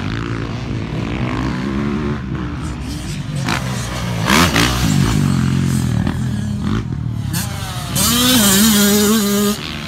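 Yamaha YZ85 two-stroke dirt bike engine being ridden hard, its revs rising and falling again and again, with a louder stretch at high revs near the end.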